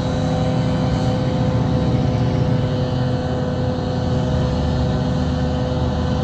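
Double-stack intermodal freight train rolling away down the track: a steady rumble with a constant hum.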